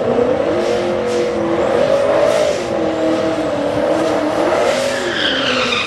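Ford Mustang 5.0 V8 held at high revs during a drag-strip burnout, the engine note wavering up and down as the rear tyre spins and smokes. The revs fall away near the end.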